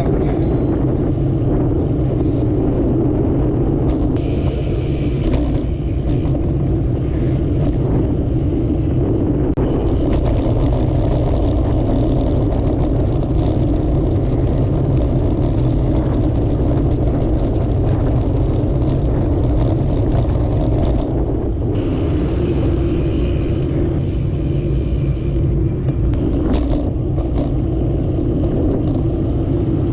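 Steady wind rush on the microphone of a camera riding along on a moving bicycle, mixed with road traffic noise. A brighter hiss rises twice, a few seconds in and again about two-thirds of the way through.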